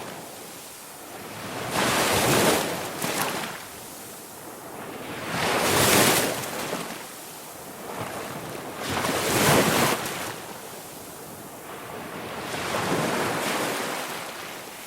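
Ocean surf washing in waves, each surge swelling and falling away every three to four seconds, four times over.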